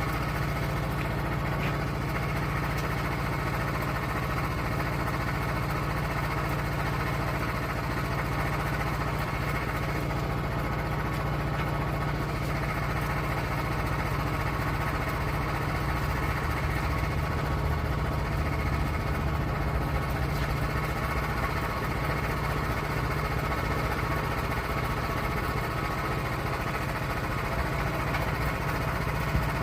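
Sawmill's gasoline engine running steadily.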